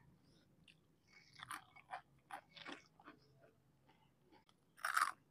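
Close-miked chewing and crunching of crisp fried fritters (gorengan): soft, scattered crackles of mouthfuls being chewed, then one louder crunchy bite near the end.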